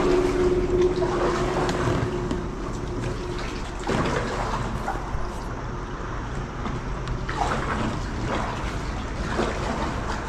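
Water running and splashing around a kayak as it is paddled through a passage under a road, with a few separate paddle splashes.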